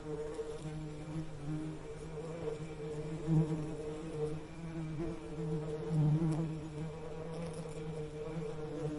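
Bees buzzing in a steady, wavering low drone that swells louder about a third of the way in and again around two-thirds of the way through.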